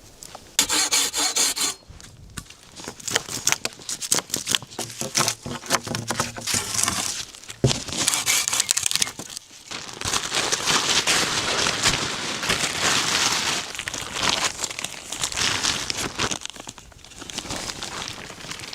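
Irregular crinkling and rustling, with rubbing and clicks, as shelter material is handled and adjusted. A single sharp knock comes about eight seconds in.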